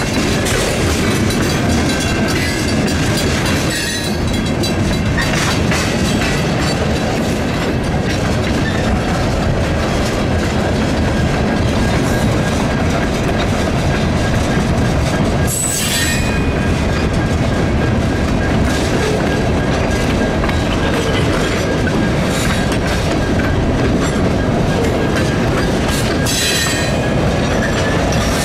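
Freight cars rolling past at a grade crossing, their wheels clattering over the rail joints in a steady rumble, with a few sharp clanks and a faint thin wheel squeal.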